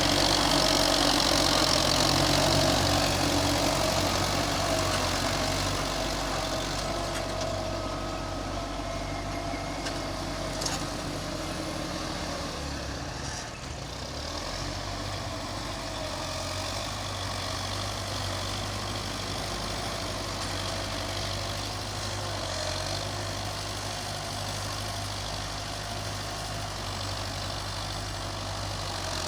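Belarus tractor's diesel engine running steadily, a little louder for the first few seconds and then settling.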